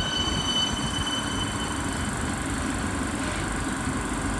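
Siemens Nexas electric suburban train standing at the platform, its equipment humming steadily, with a high thin tone that fades out about two seconds in.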